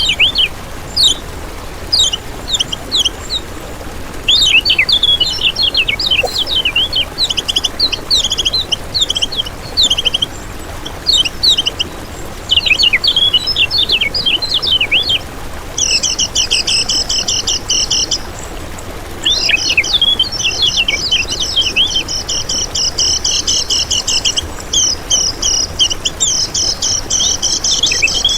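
Common iora (kecial kuning) singing: quick runs of high chirps and whistled notes, turning about halfway through into a fast, continuous chattering trill that breaks off briefly and resumes.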